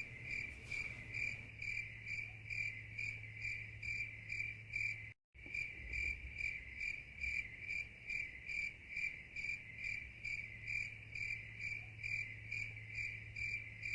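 Cricket chirping sound effect: a steady run of short, high chirps, about three a second, with a brief dropout about five seconds in.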